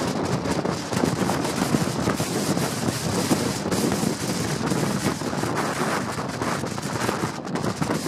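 Strong wind buffeting the microphone: a loud, continuous rumbling rush broken by rapid irregular crackles and pops as the gusts hit.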